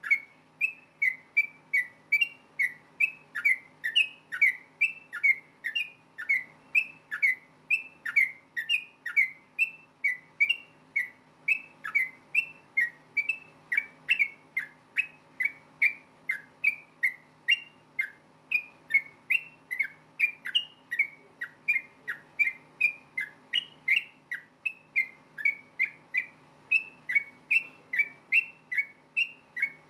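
Yellow-vented bulbul (trucukan) singing a fast, unbroken string of short whistled chirps, about three notes a second, each sweeping sharply in pitch. A faint steady hum lies underneath.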